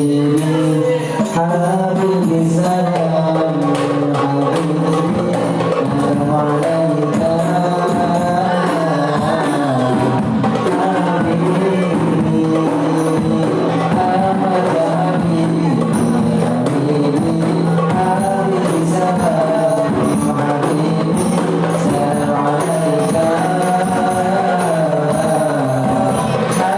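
Singing accompanied by rebana frame drums, which keep up a steady beat of hand strokes under the melody.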